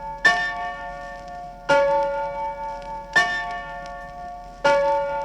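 A locomotive bell ringing: four evenly spaced strokes about a second and a half apart, each one ringing on until the next.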